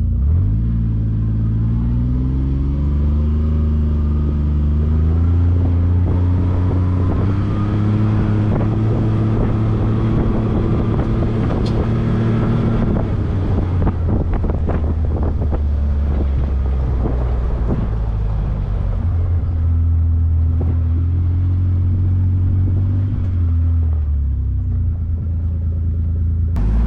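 Side-by-side UTV engine running while driven. It picks up speed at the start and holds steady, then eases off about halfway with a stretch of knocks and rattles, runs steadily again and slows near the end.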